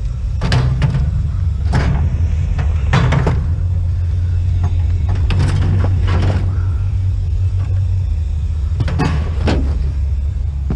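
Vehicle cabin noise while driving: a steady low road and engine rumble with irregular knocks and rattles. The rumble dies away just after, as the vehicle slows.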